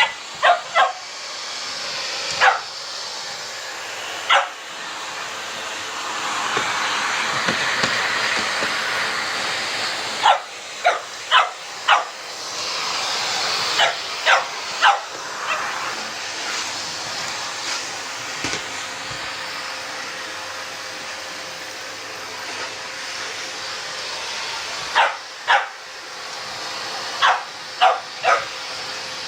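Boxer dog barking in short, sharp barks in bursts, over the steady running noise of a vacuum cleaner, which swells louder for a few seconds near the start.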